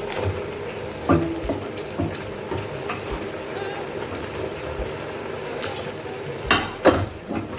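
Food sizzling in a pot while being stirred, with a utensil knocking against the pot several times, two knocks close together near the end.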